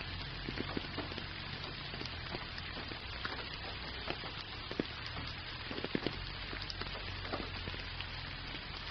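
Steady gentle rain falling, an even hiss with many separate drops ticking close by at irregular moments.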